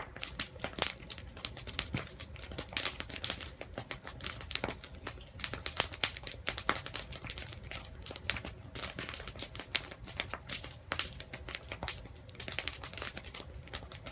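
Wood fire crackling, with dense irregular sharp pops and snaps.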